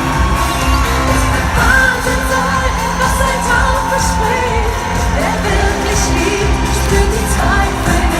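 Live Schlager pop played loud over a stadium sound system: singing over a heavy, steady bass beat, with crowd noise mixed in.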